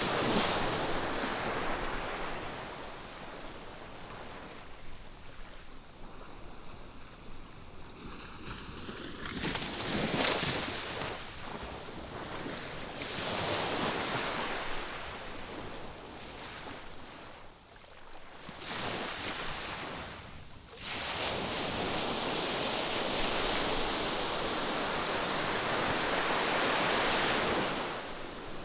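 Ocean waves breaking and washing up the shore in slow swells, each several seconds long. A long, loud one comes in about two-thirds of the way through.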